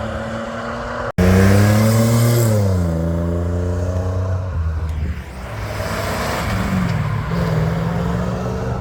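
Car engines running at low revs, with an abrupt cut about a second in to a louder engine that gives one brief rev and drops back to a steady idle.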